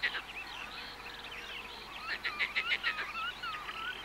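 Birds singing together: a mix of short chirps and whistled notes, with quick runs of rapidly repeated notes near the start and about two seconds in.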